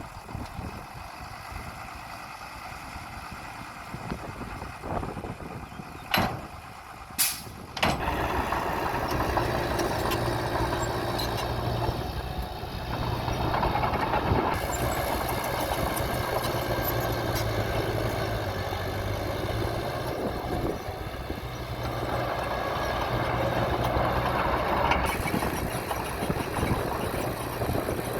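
Diesel engine of heavy earthmoving machinery running, with two sharp knocks a little after six and seven seconds. About eight seconds in the engine becomes much louder and stays loud with a steady low pitch.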